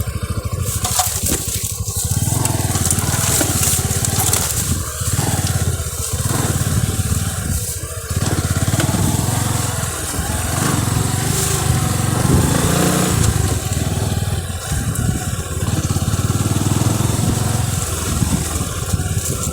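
Motorcycle engine running at fairly steady revs while riding, with the engine note briefly a little louder and higher a bit past halfway.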